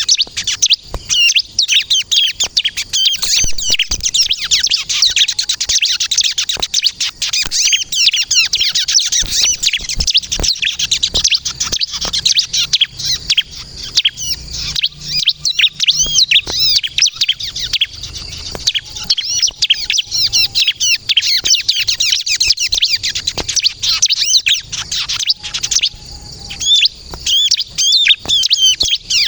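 Bar-winged prinia (ciblek kristal) singing without pause: a fast, dense stream of high, sharp chirps and trills.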